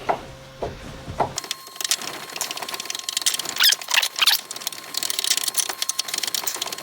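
Quick, irregular metallic clicks and squeaks of small scooter wheel-hub parts being worked by hand after a little lubrication.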